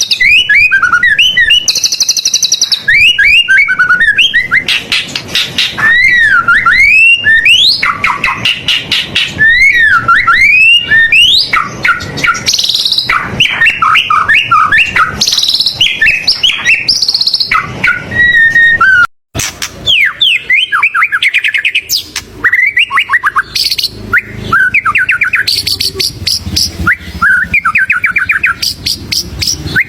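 White-rumped shama (murai batu) singing loudly and continuously, a varied song of sweeping whistled slurs, rapid rattling trills and sharp high notes. The song cuts out abruptly for a moment about two-thirds of the way through.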